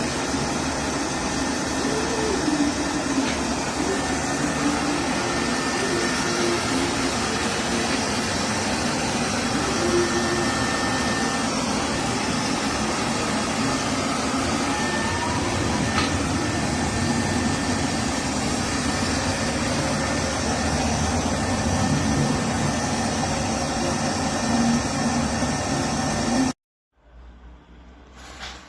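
Robot vacuum cleaner running with a steady whirring hum, cutting off suddenly near the end.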